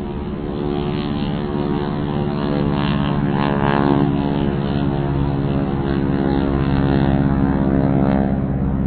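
Propeller airplane engine droning steadily, growing a little louder over the first couple of seconds.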